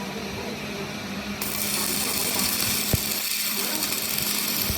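Workshop machinery running with a steady hum. About a second and a half in, a loud hiss starts suddenly, and there is one sharp click near three seconds.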